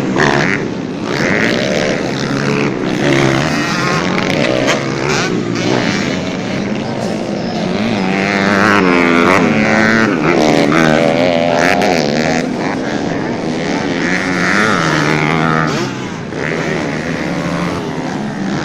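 Several dirt-bike engines racing together, their pitches rising and falling as the riders rev and shift. The sound is loudest about halfway through.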